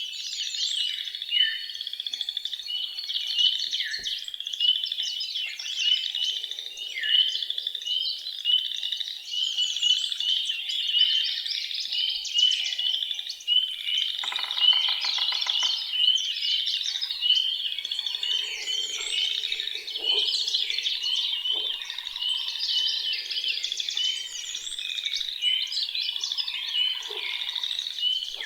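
Dense woodland chorus of many songbirds singing and chirping over one another, short high notes and trills overlapping without a break, with a few lower calls mixed in.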